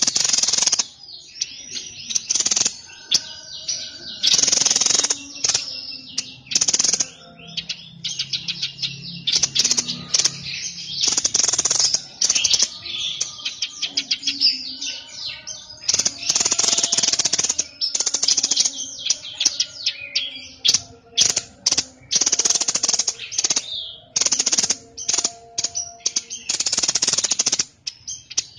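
A songbird of the kind Indonesian keepers call 'burung sniper', singing vigorously ('gacor'). It gives loud, rapid, high-pitched chattering phrases, each lasting one to two seconds, with brief pauses between them.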